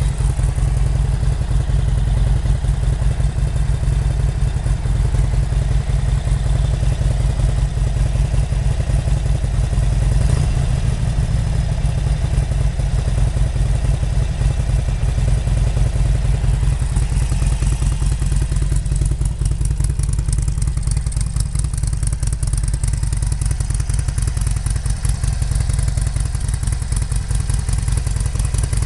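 Harley-Davidson Sportster 883 SuperLow's air-cooled 883 cc V-twin idling steadily in neutral, a continuous loud, low-pitched beat.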